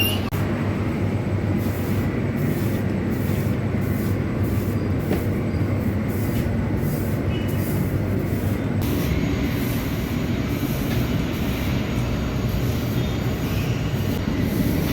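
Mechanized lavash bakery machinery running with a steady, continuous mechanical rumble.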